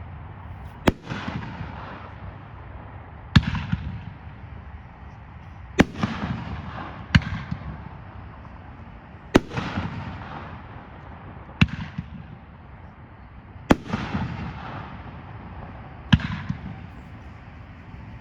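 A consumer aerial firework cake, "Heart of Gold", firing shot after shot: about eight sharp bangs, roughly one every two to two and a half seconds, each followed by a fading crackle.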